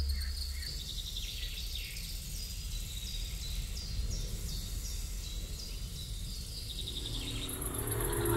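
A songbird singing a series of short, high, down-slurred notes, about two a second, over a steady low rumble. A few held musical tones come in near the end.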